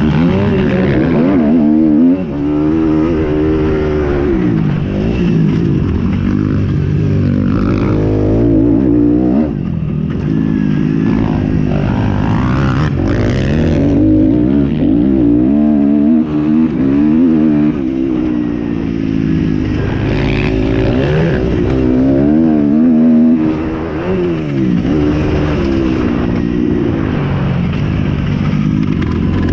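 Motocross bike engines revving hard, their pitch rising and falling over and over as the throttle is worked.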